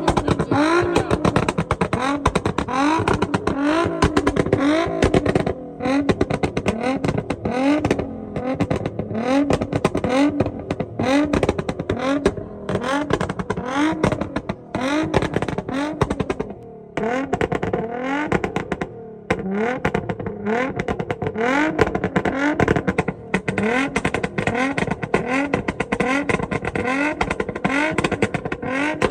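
Car engine revved hard over and over, its pitch climbing and dropping back about once every 0.7 seconds, with a dense crackle of sharp pops throughout and a few short breaks.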